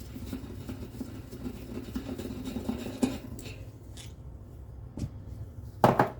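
Hand work on a bicycle: rubbing or scrubbing for about three seconds, then a few light clicks and one loud clank near the end.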